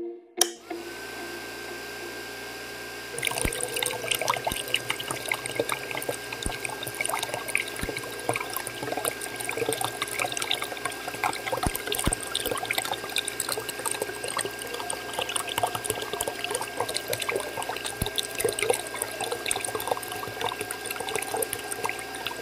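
A switch clicks and a small electric motor starts, running with a steady high whine as it belt-drives a miniature water pump. About three seconds in, water starts pouring from the pump's spout and splashing into shallow water, and keeps flowing steadily alongside the motor.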